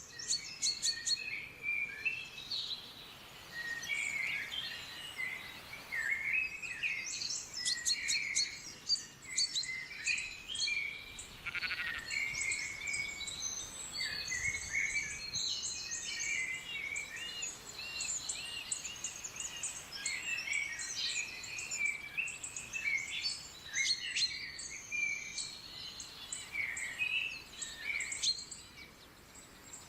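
Several songbirds singing and calling at once: many overlapping short chirps, trills and whistled notes, with a run of evenly repeated notes in the middle.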